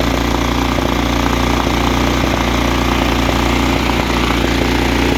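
Kohler PowerPlus 17 engine running steadily.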